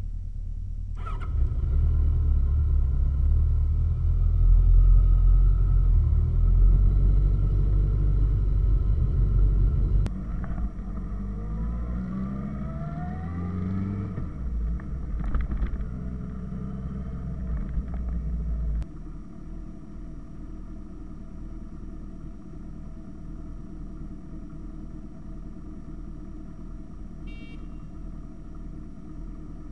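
Motorcycle engine running at road speed with a low, steady rumble. Partway through it revs up in rising sweeps, then drops abruptly to a quieter, steady drone.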